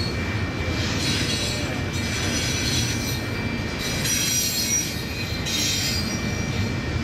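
Double-stack intermodal container train rolling past on steel wheels and rails: a steady low rumble, with high-pitched wheel squeal rising and fading in several short spells.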